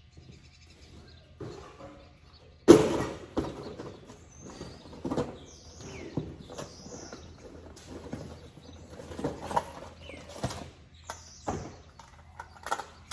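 Scattered knocks and clatter of tools and metal parts being handled, the loudest knock about three seconds in, with birds chirping now and then.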